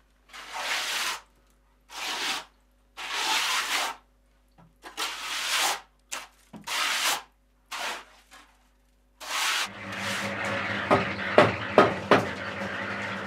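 A hand tool scraping over a rough, gritty surface in slow strokes, about one a second. From about ten seconds in a steady low hum takes over, with four sharp knocks near the end.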